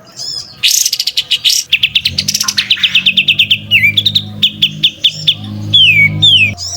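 Songbird song: a fast high trill about half a second in, then a long run of quick repeated chirps at about ten a second, ending in two downward-sliding whistles. A low steady hum sits beneath from about two seconds in.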